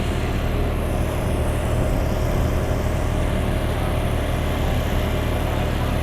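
An engine running steadily at idle, a low, even hum with no change in speed.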